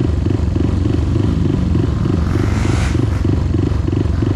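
Off-road vehicle engine running steadily with a regular pulsing throb, with a brief rise of hissing noise about two and a half seconds in.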